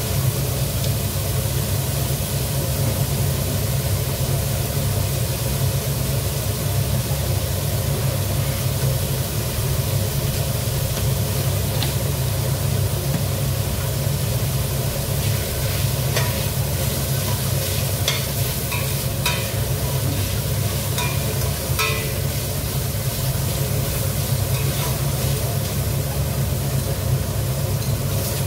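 Shredded chicken sizzling in a stainless steel pot on a gas stove, over a steady low hum, with scattered crackles and pops from about halfway through. Near the end a spoon starts stirring it in the pot.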